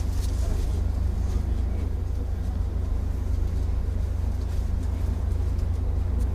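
Steady low rumble of a JR 205 series electric train, heard from inside the car, with a few faint ticks.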